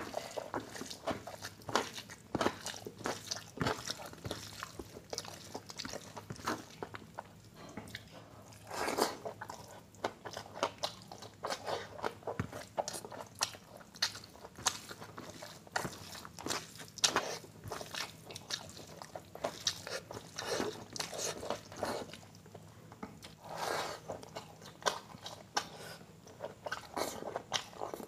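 Close-miked mouth sounds of a person eating curried rice by hand: wet chewing and smacking with irregular clicks and squelches, busier in a few clusters.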